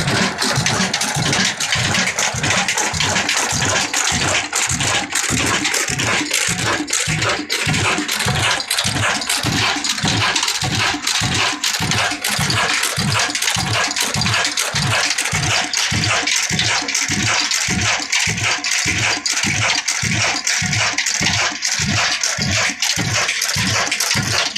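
Kala desi oil engine, a slow-running stationary diesel, running steadily with an even low thud of about two beats a second and a clattery hiss above it.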